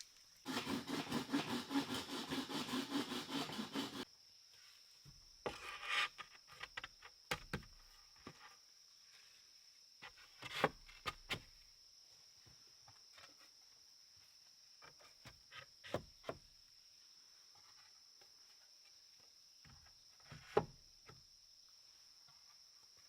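A hand saw cutting through wood in quick, even strokes for about three and a half seconds. It is followed by scattered knocks and clicks of wood being handled. A steady high-pitched whine runs underneath throughout.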